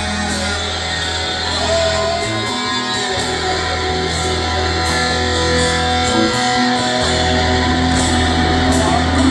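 Live rock band playing an instrumental stretch without vocals: guitar over steady, held bass notes.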